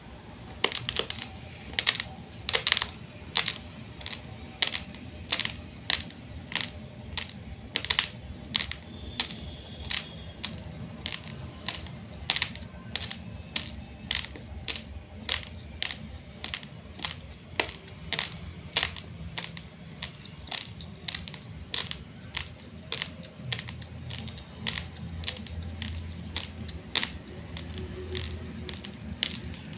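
Close-up crunching of raw long-grain basmati rice being chewed, with sharp, crisp crunches at about two a second.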